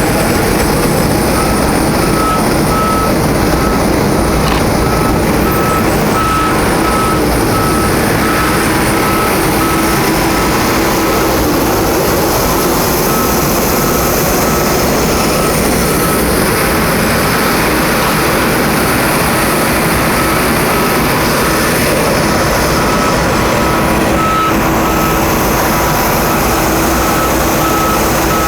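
A vehicle's reversing alarm beeping about twice a second over a loud, steady rush of engine noise.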